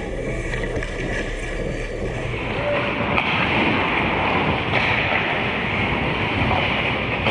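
Steady noisy rush of a hockey game in play, with a few faint sharp knocks; it gets a little louder about two and a half seconds in.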